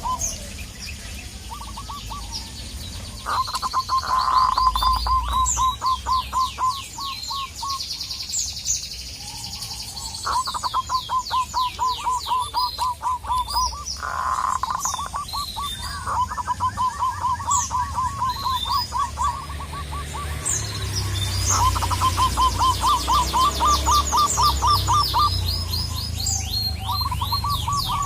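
Zebra doves (local perkutut) calling: run after run of rapid staccato cooing notes, each run a few seconds long with short pauses between. Smaller birds chirp high and thin over them throughout.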